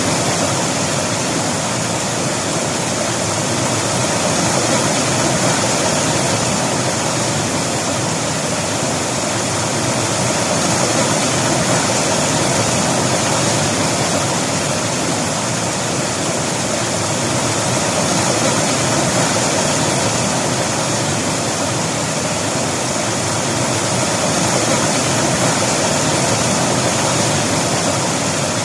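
River water rushing over rocks in a steady, continuous flow, with a slow gentle swell in loudness.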